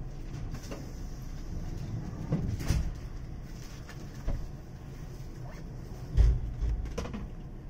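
Steady low hum of a JNR 185-series train standing at the platform, with a few knocks and clunks, the loudest a heavy thump about six seconds in.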